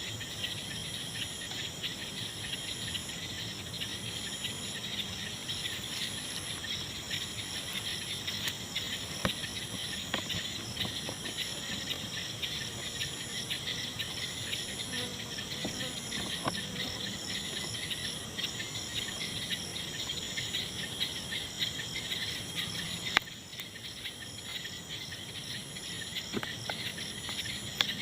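Night chorus of crickets and other insects: a steady high chirring with a higher pulsed trill repeating about once a second. A single sharp click comes a little before the end, after which the chorus is slightly quieter.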